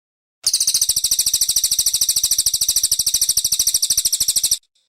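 Brown cililin singing a long, fast trill of high, sharp notes, about thirteen a second. It starts suddenly about half a second in and cuts off abruptly near the end.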